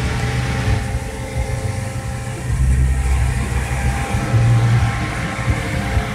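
1962 Chevrolet Impala SS engine and exhaust rumbling low as the car rolls slowly by, growing louder about halfway through.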